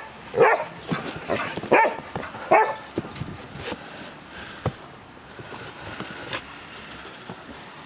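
A dog yips and whimpers about four times in quick succession over the first three seconds, then goes quieter.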